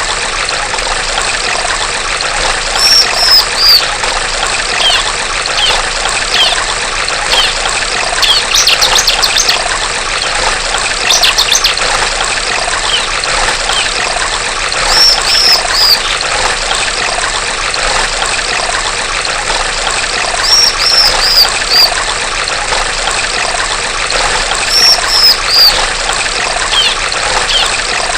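Female bar-winged prinia (ciblek) calling over a steadily trickling stream. Every few seconds it gives a short run of three to five high, falling notes, with two fast rattling trills about nine and eleven seconds in.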